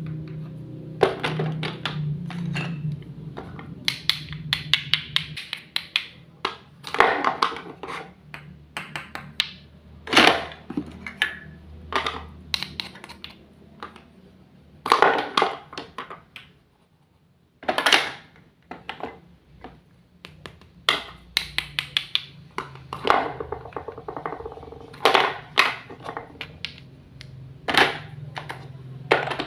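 Irregular clicks, taps and knocks of cutting and of handling small plastic and wooden toy kitchen pieces, some in quick runs, over a faint low hum.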